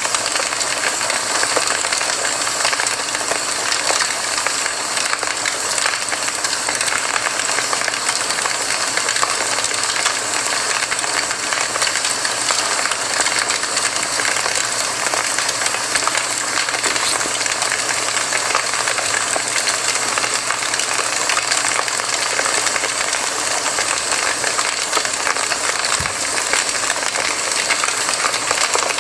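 Campfire crackling and hissing steadily, with a dense stream of small pops and snaps.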